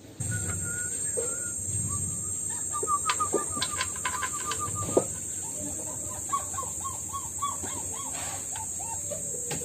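Bird calls in quick runs of short chirps, about three or four a second, over a steady high-pitched buzz. A few sharp clicks come from tools on metal in the engine bay, the loudest about five seconds in.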